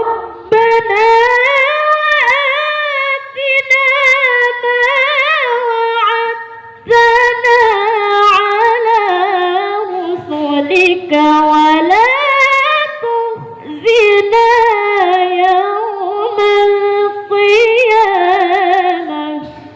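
A young boy's voice chanting Qur'an recitation in melodic tilawah style, with long held, high-pitched notes that wind up and down in ornamented turns. It pauses for breath a few times, about half a second in, near seven seconds, and twice more before the end.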